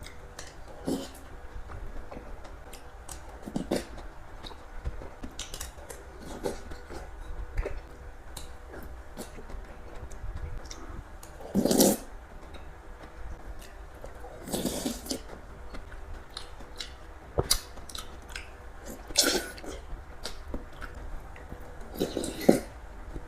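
Bakso (Indonesian meatball soup) being eaten: chewing and slurping mouth sounds in short, irregular bursts, with scattered sharp clicks.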